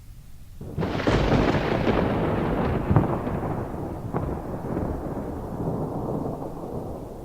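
A thunderclap: a sudden crash about a second in, with sharp cracks a couple of seconds later, rolling and fading away slowly.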